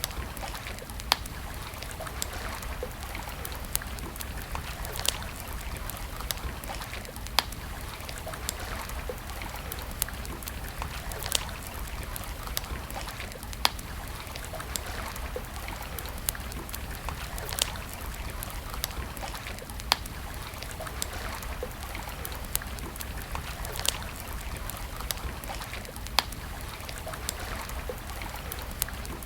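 Wood campfire crackling: sharp, irregular pops every second or two over a steady hiss.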